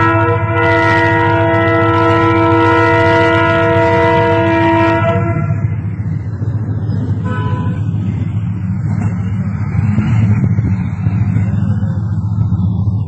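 Train horn sounding one long, steady blast that cuts off about five seconds in, over the low rumble of a passing train, which goes on after the horn stops.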